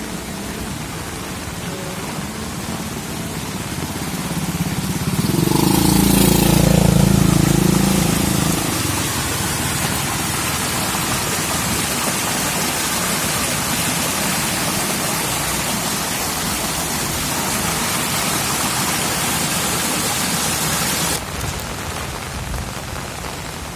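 Heavy rain falling steadily. About five seconds in, a vehicle engine passes close by, swelling and fading over a few seconds. The rain hiss then grows louder and drops off suddenly near the end.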